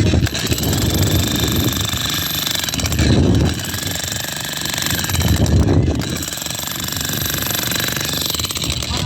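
Rapid, steady mechanical rattle of a working machine or tool, swelling heavier and lower about every two and a half to three seconds, over a faint steady whine.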